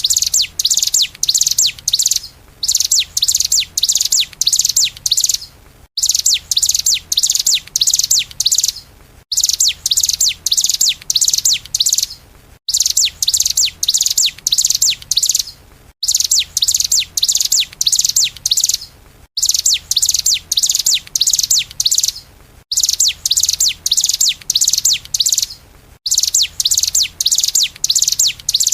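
A small songbird's rapid, high chirping song, in fast runs of short descending notes. The recording is looped as a song-training track and restarts about every three seconds with an abrupt cut, over a faint low hum.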